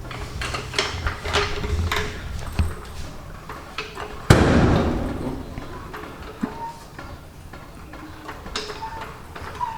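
Workshop clatter: scattered clicks and knocks of parts and tools being handled, with one loud bang about four seconds in that rings off over a second or so.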